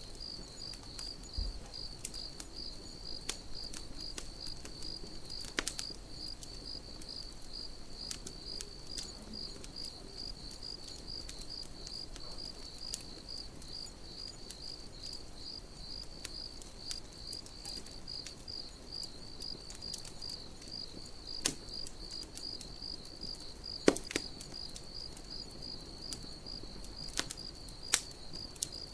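A cricket chirping steadily in an even pulse of about two to three chirps a second, with scattered sharp crackles and pops from a campfire. The loudest pop comes about three-quarters of the way through.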